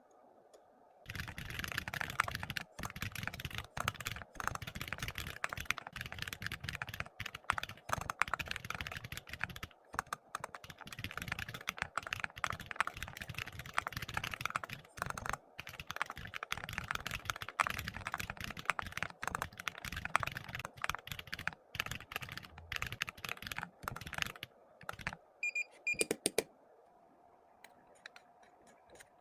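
Typing on a computer keyboard: a fast, steady stream of keystrokes that starts about a second in and stops near the end, with a few last keys after a short pause.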